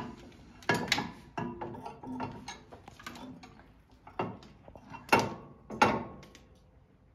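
Metal clanks and knocks as a hydraulic top link is handled and set against a tractor's top-link bracket: a series of separate knocks, the two loudest about five and six seconds in, some ringing briefly.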